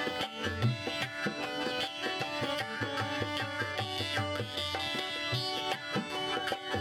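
Rajasthani folk music: deep hand-drum strokes in a steady rhythm under held melodic notes that step from pitch to pitch.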